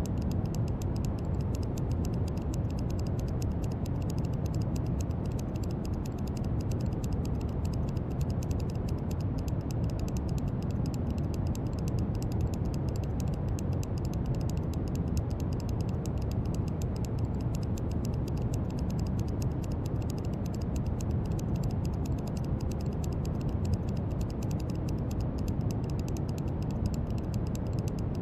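Steady brown noise: an even, deep hiss strongest in the bass and fading toward the treble, with a fine rapid crackle running through its upper range.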